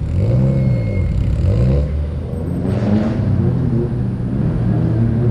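Car engine revving in repeated blips as a car drives off, its pitch rising and falling several times. A short hiss about three seconds in.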